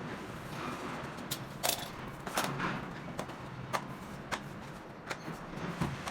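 Irregular sharp knocks and clicks, about a dozen short hits scattered over a steady background hiss, the loudest a little under two seconds in.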